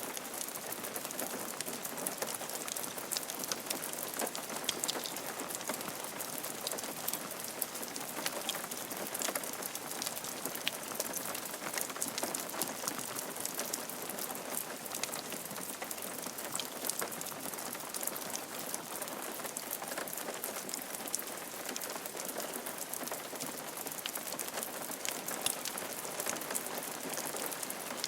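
Steady rain falling on a roof, a dense even patter of many small drop ticks.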